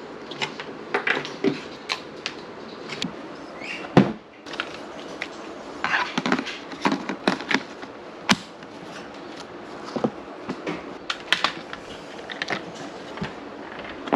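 Irregular knocks and clatters of objects being handled, with one louder knock about four seconds in.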